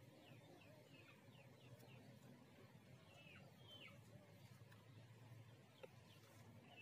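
Faint bird chirps: short calls repeated in quick runs, with a single faint click near the end.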